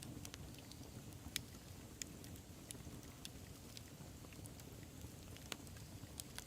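Wood fire burning: a low steady rumble of flames with scattered sharp crackles and pops of burning wood, a couple of them louder, one about a second and a half in.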